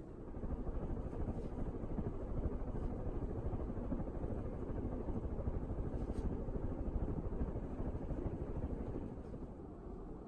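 Casablanca Mission ceiling fan running, a steady low whoosh of moving air that swells just after the start and drops back a little near the end.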